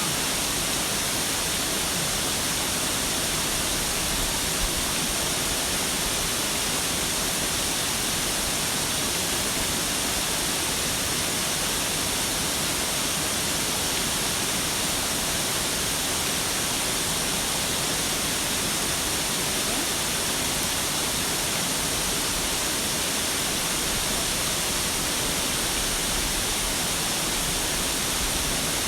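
Steady rush of water pouring down a waterfall, an even hiss without breaks.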